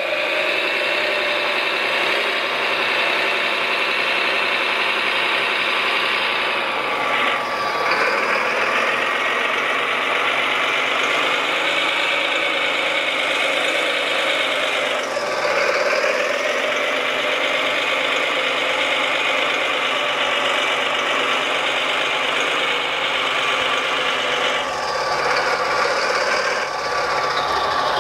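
A radio-controlled construction machine's motor whining steadily, its pitch dipping sharply and recovering three times, about 7, 15 and 25 seconds in.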